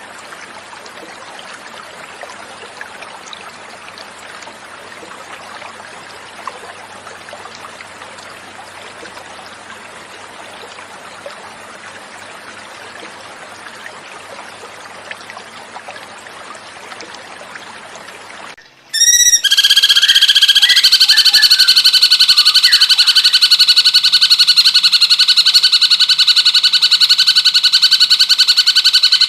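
Flowing water running as a soft, even hiss for about eighteen seconds. Then a cucak cungkok song cuts in much louder: one long, rapidly pulsing trill held at a steady pitch for about ten seconds.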